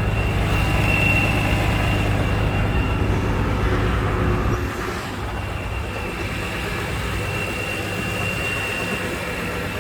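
Supercharged straight-six engine of a 2005 BMW M3 with a Dinan Stage 3 supercharger and Dinan exhaust, idling steadily, with a faint steady high whine over it. The low exhaust note gets quieter about halfway through.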